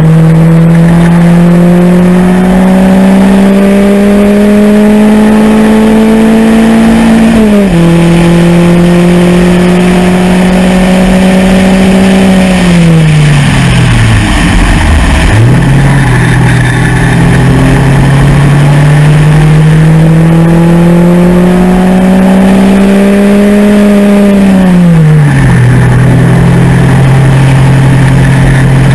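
MEV Rocket track car's engine accelerating hard, the revs climbing with an upshift about seven seconds in. The revs fall away around twelve to fifteen seconds, climb again for several seconds, then drop near twenty-five seconds and settle. Wind rush in the open cockpit runs under it.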